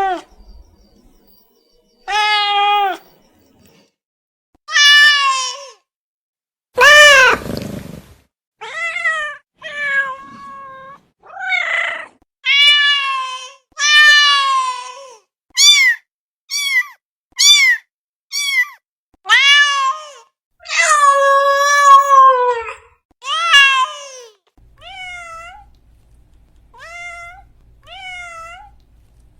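Domestic cat meowing over and over, about twenty separate meows in quick succession, many rising then falling in pitch, with one long drawn-out meow about two-thirds of the way through. The last few meows are fainter.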